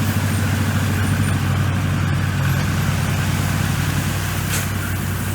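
Komatsu bulldozer's diesel engine running steadily, with a brief hiss about four and a half seconds in.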